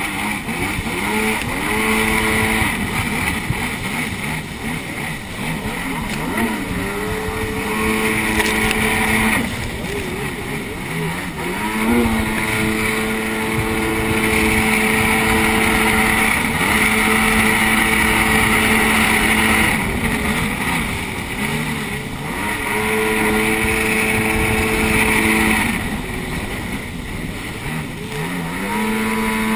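Jet ski engine running under throttle, its pitch climbing and holding several times as the rider speeds up and eases off, over a steady rush of water and spray.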